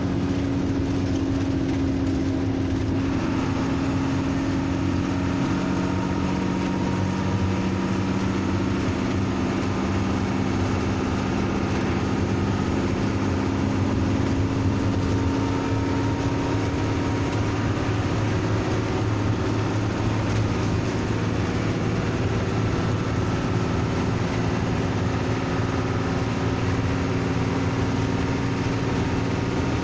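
Bus diesel engine running steadily, a deep even hum with several held tones. About three seconds in, a broader hiss joins it and stays.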